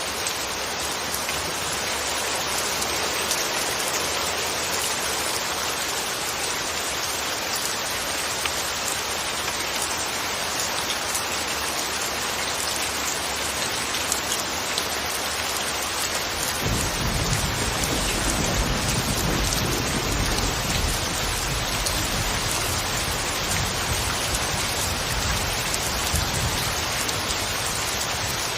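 Steady rain falling. A little past halfway a low rumble of distant thunder sets in underneath and carries on.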